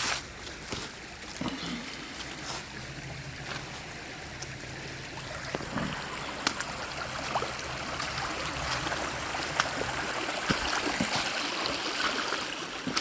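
Creek water running and trickling, growing louder about halfway through, with scattered sharp clicks and knocks.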